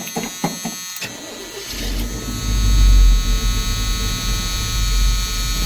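Chevy C10 pickup's engine being cranked by the starter on a cold start with no choke hooked up. It catches about a second and a half in, rises to its loudest around three seconds, and settles into a heavy, uneven run through Flowmaster mufflers.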